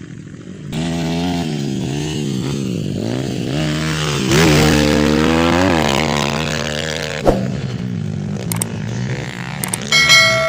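Motocross bike engines revving up and down, loudest midway as a bike passes close. A sharp knock comes about seven seconds in, and a brief steady tone sounds near the end.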